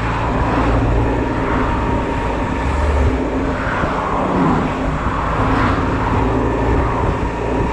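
Honda Silver Wing maxi-scooter engine running steadily at low road speed, mixed with the rumble of surrounding traffic in a jam.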